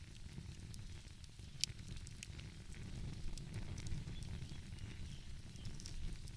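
Wood fire crackling, with scattered sharp pops and one louder pop about a second and a half in, over a steady low rumble.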